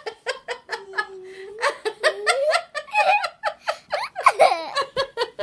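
Laughter in a long run of quick, pulsing bursts that goes on throughout, with one longer held voiced note about a second in.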